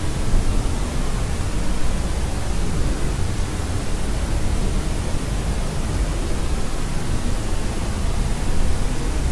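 Steady pink-style noise from a sleep-aid noise track: an even, unchanging hiss with a deep rumbling low end, fading toward the highs.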